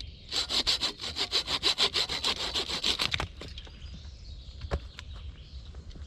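Hand saw cutting wood in quick back-and-forth strokes for about three seconds, then stopping. A single sharp click follows a little later.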